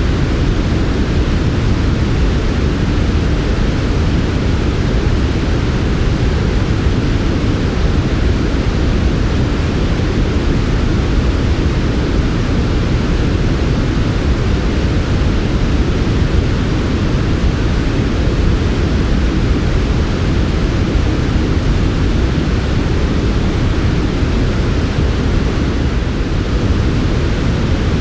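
Continuous generated sleep noise: a steady, even hiss with no rhythm, heavier in the low end than in the treble, so it sounds deep and soft rather than bright.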